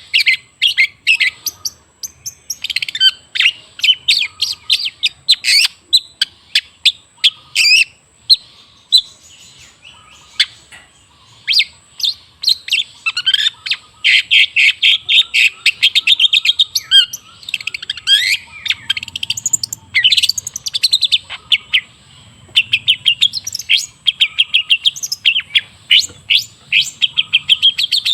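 Long-tailed shrike (cendet) singing a fast, chattering song of sharp, rapidly repeated notes, with a short lull about nine to eleven seconds in.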